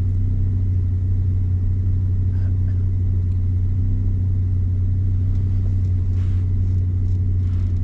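Turbocharged Mazda MX-5 engine idling with a steady low rumble that does not change in pitch.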